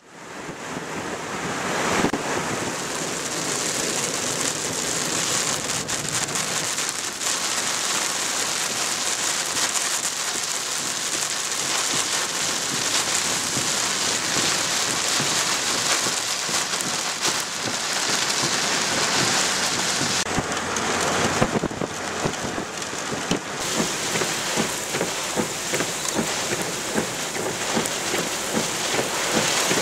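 Heavy rain falling steadily: a dense, even hiss that swells up in the first second or two and then holds without a break.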